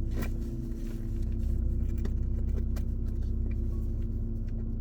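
Car running, heard from inside the cabin: a steady low rumble with a hum over it, growing a little stronger about a second in.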